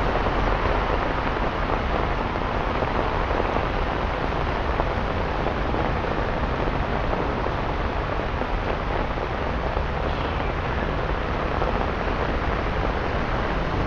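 Steady rain falling on a wet city street, an even hiss with no breaks.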